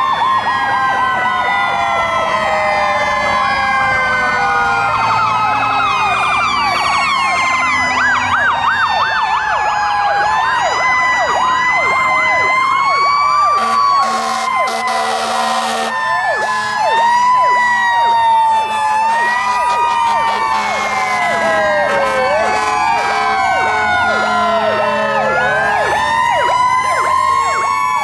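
Sirens from several fire trucks sound at once, overlapping slow wails and fast yelps that rise and fall. A loud air horn blast lasts about two seconds in the middle.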